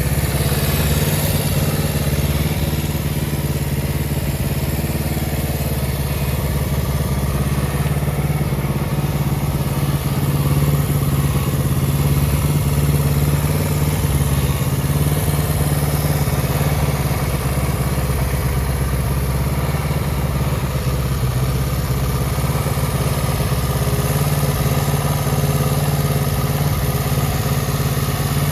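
Kawasaki Z250FT's air-cooled parallel-twin engine idling steadily through an aftermarket exhaust.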